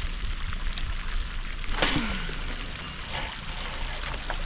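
Water lapping and wind noise around a small fishing boat. About two seconds in there is a sudden short swish falling in pitch, followed by a faint steady high whine.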